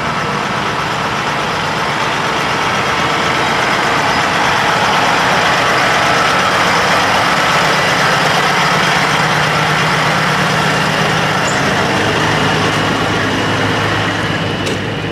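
Heavy diesel truck engine running, getting louder for several seconds, then easing off near the end.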